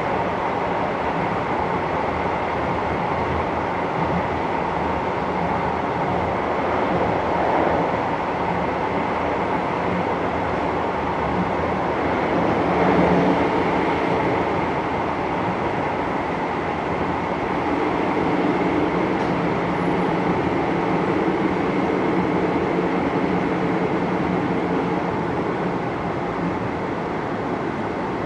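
Running noise of a JR Hokkaido 733 series electric train heard from inside the passenger car: a steady rumble of wheels on rail with faint steady tones, swelling briefly louder about halfway through.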